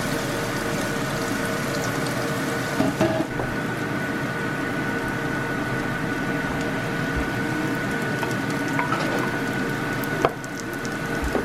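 Chopped onions sautéing in olive oil and butter in a skillet: a steady sizzle, with a faint steady hum underneath and a couple of brief knocks.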